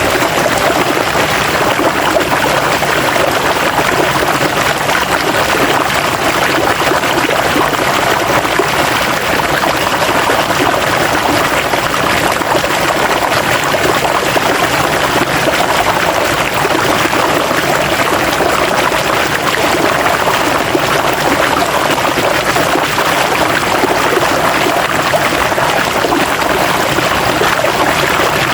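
River water flowing and splashing over rocks, a steady, unbroken rush.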